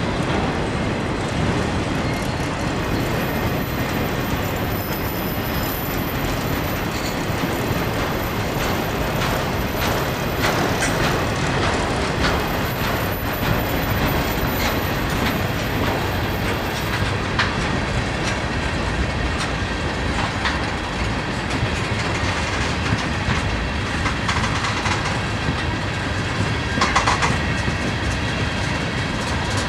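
Freight cars, autoracks then tank cars, rolling past close by: a steady rumble of steel wheels on rail, with clicks as the wheels cross rail joints. A short louder clatter comes near the end.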